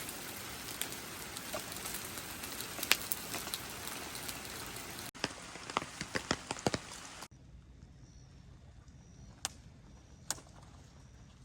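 Steady rain with scattered sharp drops, broken by edits at about five and seven seconds, after which it is much quieter.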